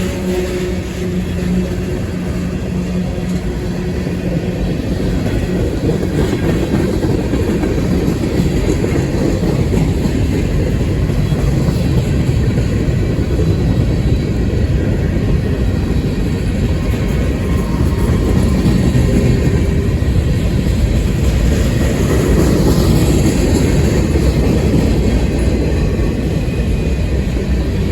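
Freight cars of a long manifest train rolling past, a steady loud rumble of steel wheels on the rails. A faint low hum fades out over the first few seconds.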